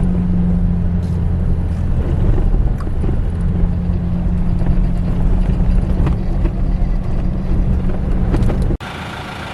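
A vehicle's engine and road noise in a steady low drone. Near the end it cuts off abruptly to a quieter, steady engine hum.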